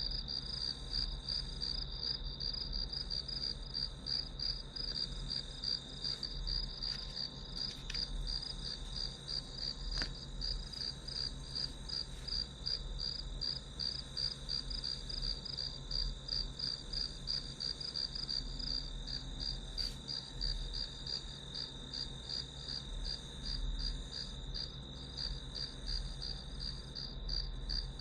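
Crickets chirping: an even, rapid high-pitched pulsing over a continuous high trill, steady throughout.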